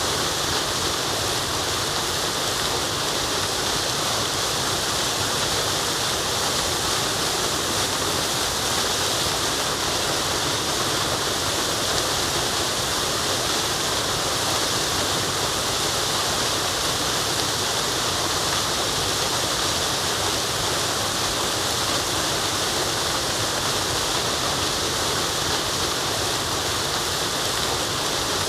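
Steady rushing of a forest waterfall, an even, unbroken hiss of falling water that is strongest in the upper range.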